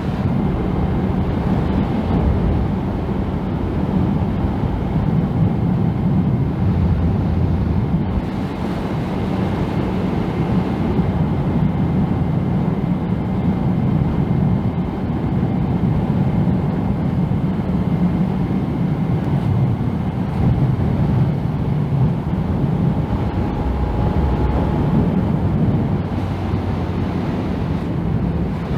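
Steady wind rush over a Yamaha MT-09 rider's helmet, mixed with the motorcycle's engine and road noise as it cruises at a steady speed.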